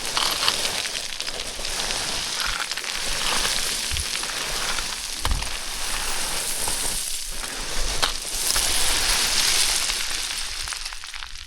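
Boots sliding down loose scree: a continuous gravelly hiss of small stones on the move, with scattered crunches and clicks, fading near the end.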